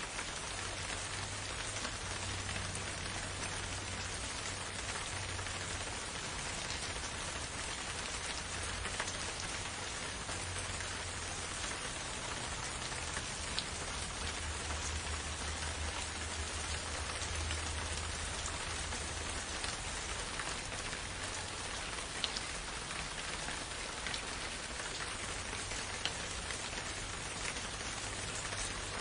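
Steady rain falling in a forest, an even hiss with occasional louder individual drops, over a faint low rumble.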